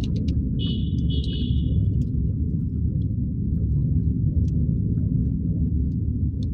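Steady low road and engine rumble of a car driving through city traffic, with a brief high-pitched tone, like a distant horn, about a second in.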